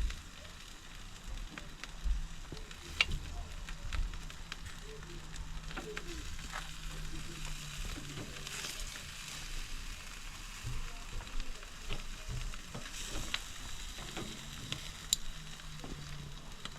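Jerk chicken legs sizzling on a barbecue over a fire, with a steady hiss and scattered sharp pops and crackles.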